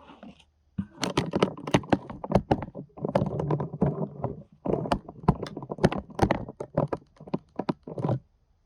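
Compost bin contents being worked by hand: rapid, uneven crackling and rustling of dry bedding and scraps, starting about a second in and stopping near the end.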